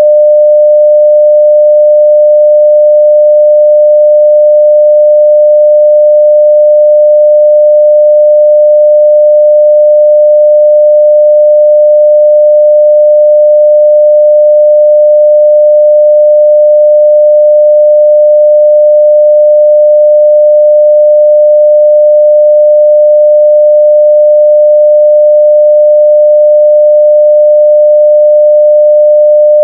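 Steady 600 Hz sine-wave test tone at full level, one pure unbroken pitch.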